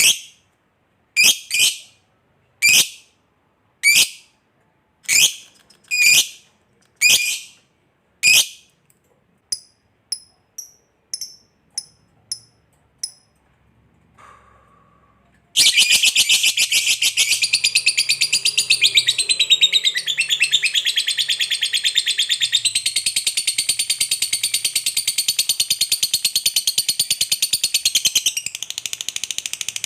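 Lovebird calling: about eight sharp, loud shrieks roughly a second apart, then softer, higher chirps about twice a second. About halfway through it breaks into a long, unbroken, very fast chattering trill, the long 'ngekek' song prized in lovebirds.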